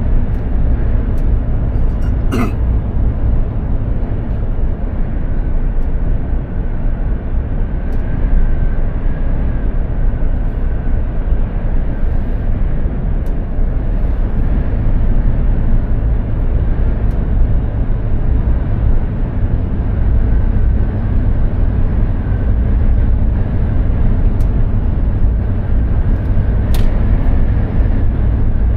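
Mercedes-Benz Actros 2763 truck on the move: a steady low drone of its straight-six diesel engine together with tyre and road noise. There is a sharp click about two seconds in and another near the end.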